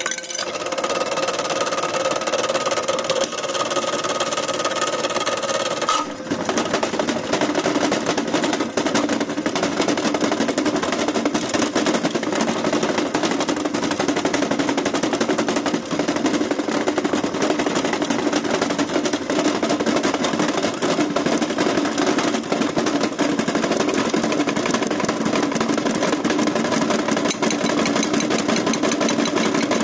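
AEG washing machine running hard with fast, continuous rattling and knocking over a steady whine. The whine drops lower about six seconds in.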